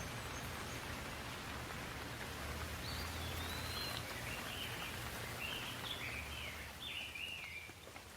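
Steady hiss of falling rain, with a bird calling a run of short chirps from about three seconds in; the rain eases slightly near the end.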